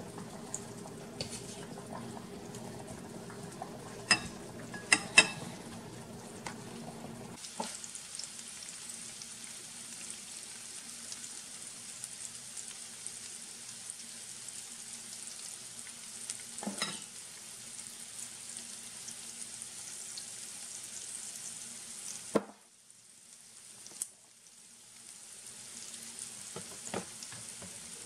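Potato chunks sizzling in sausage fat in a frying pan, a steady hiss. It follows a few sharp metal clinks of a utensil against the pan and bowl in the first seconds. The sizzle drops away briefly near the end, then comes back.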